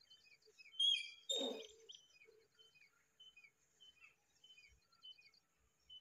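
Birds chirping in the background, a short high note repeated about twice a second, with a louder, fuller call about a second in.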